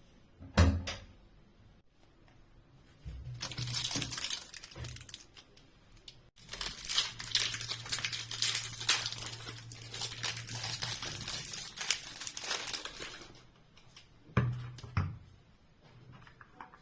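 Crinkling, rustling handling noise in two stretches, the longer lasting about seven seconds, with a knock near the start and a couple of knocks near the end.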